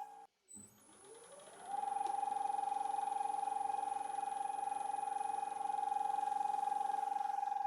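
Wood lathe motor starting up, its whine rising in pitch over about a second, then running at a steady high whine.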